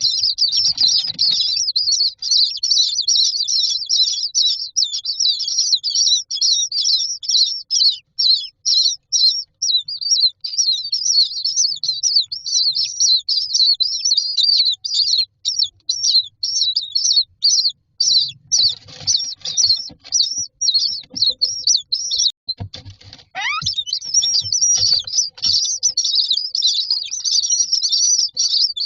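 Common myna chicks begging in the nest box: a dense, unbroken stream of rapid, high, shrill calls. About two-thirds of the way through there are knocks and scraping in the box.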